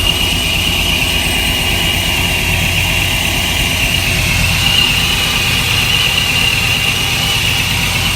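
A 5.3-litre LS V8 (LM7) idling with a freshly installed ProCharger centrifugal supercharger, its steady high whine sitting over the engine's low rumble.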